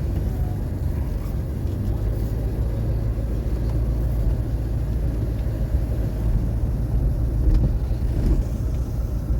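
A 1981 Cadillac Seville pulling away and driving slowly, heard from inside the cabin: a steady low engine and road rumble.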